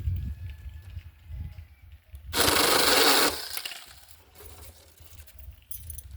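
Battery-powered mini chainsaw cutting through a branch in one short, loud burst of about a second, a little after two seconds in.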